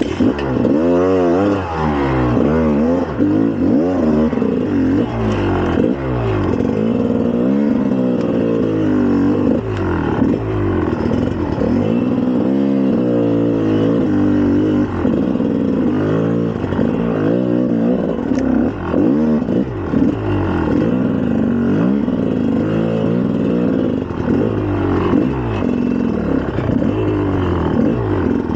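2004 GasGas EC300's single-cylinder two-stroke engine under way, revving up and down over and over as the bike is ridden.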